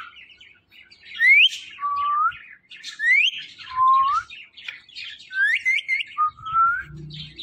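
Ringneck parrot whistling three times in much the same way, each a quick rising whistle followed by a lower held note that lifts at the end, with soft chatter in between.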